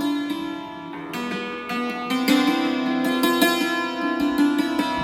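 A 21-string plucked string instrument being played: a flowing run of plucked notes that ring into one another over a sustained low note.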